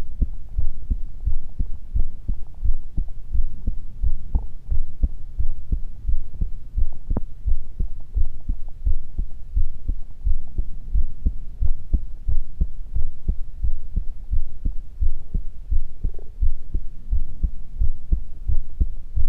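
Human heartbeat, a low thump repeating in a steady, even rhythm.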